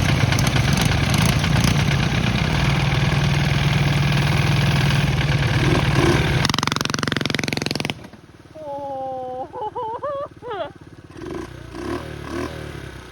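Small mini bike engine running hard, then cutting out abruptly about eight seconds in as the bike drives into water deep enough to swamp the engine block and hydrolock it. A few shouts follow.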